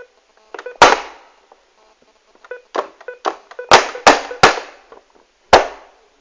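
A series of loud, sharp bangs or blows: one about a second in, a close run of three around four seconds, and another near the end, each with a short ringing tail and smaller knocks between.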